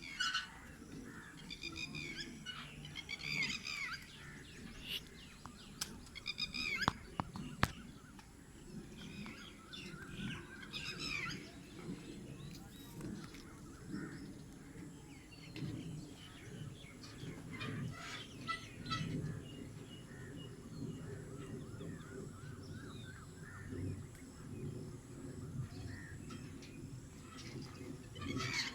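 Several birds chirping and calling, with repeated short falling notes, over a low steady rumble; a few sharp clicks about seven seconds in.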